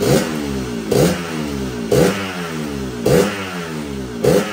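Yamaha RX-King 135cc two-stroke single revved in quick throttle blips, five times about a second apart, each rev falling back to idle between. Its new full original exhaust has a muffler customised to growl, but on the standard main jet the growl is still mild.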